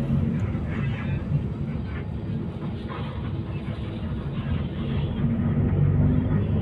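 Intercity bus engine and road noise heard from inside the passenger cabin: a steady low rumble that swells a little near the end.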